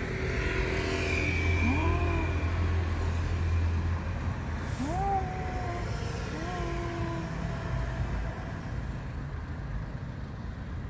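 A car engine running, with a low hum loudest in the first four seconds and then easing off. Three short meow-like calls, each rising then falling in pitch, come about two, five and six and a half seconds in.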